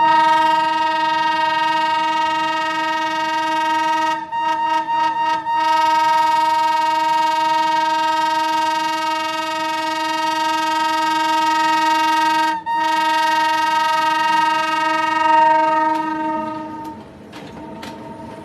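Train horn sounding one long, steady blast, briefly broken about four seconds in and again near twelve seconds, then dying away near the end.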